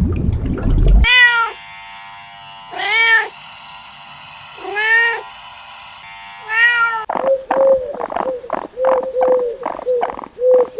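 Domestic cat meowing four times, each call a rising-then-falling meow about two seconds apart. About seven seconds in it cuts to a rapid run of short, higher calls from another animal, and a low noise fades out in the first second.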